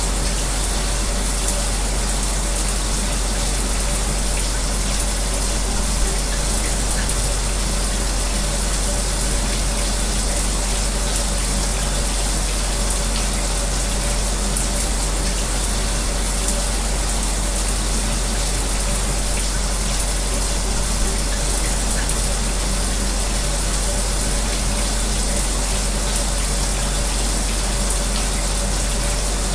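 A shower running steadily, blended with an electric fan's constant hum, making an unchanging white-noise bed.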